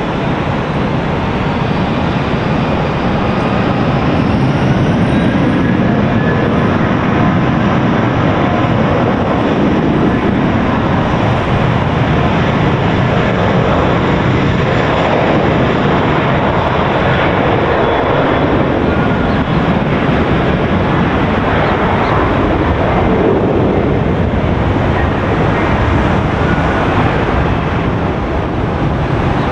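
Jet airliner engines running loud and steady as a passenger jet passes on the runway or overhead, with a faint rising whine in the first few seconds.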